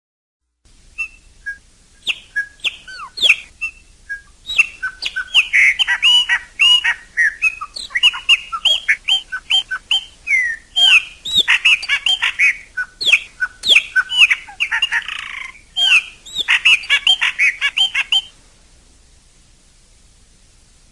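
Chopi blackbird (pássaro-preto, graúna) singing: a fast, dense run of loud whistles, slurred notes and chirps that stops abruptly about 18 seconds in, leaving only a faint hiss.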